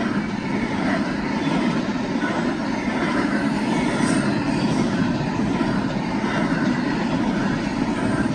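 Double-stack container cars of a freight train rolling past close by: a loud, steady rumble of steel wheels on rail.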